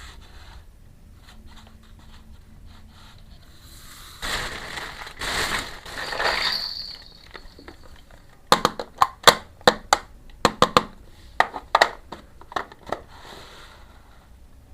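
Hands handling a miniature toy kitchen set and its packaging: a few seconds of crinkling and rustling, then a quick run of sharp clicks and taps as small hard pieces are handled.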